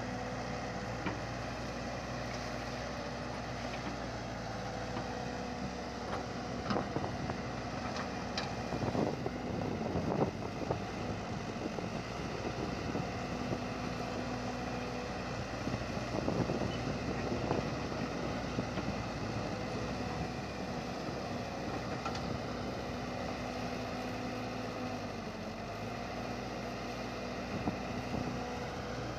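A vehicle engine running steadily with a constant hum. A few brief knocks and clatters come about six to ten seconds in and again around sixteen seconds.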